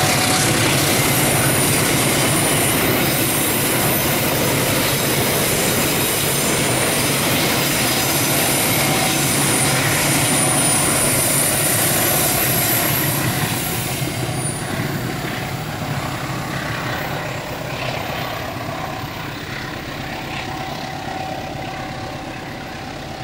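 Passenger train coaches rolling past on a curve, the wheels rumbling on the rails with a faint high wheel squeal at times. The noise drops after about fourteen seconds and keeps fading as the last coaches pull away.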